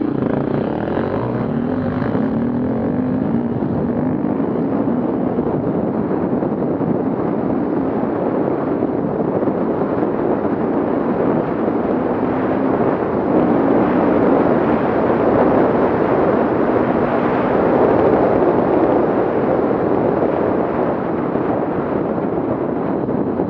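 Off-road vehicle engine running, with a faint engine note in the first few seconds and a rise in level from the middle on.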